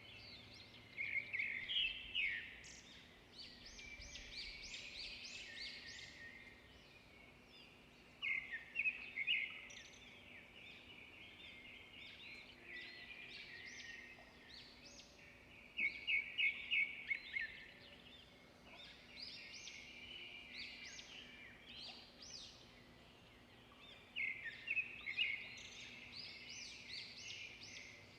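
Songbirds chirping and singing outdoors, in loud bursts of rapid high notes every several seconds, with softer chirps in between.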